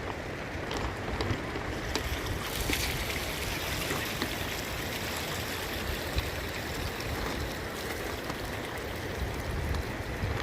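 Steady wind noise of a storm, with gusts buffeting the microphone as a low rumble.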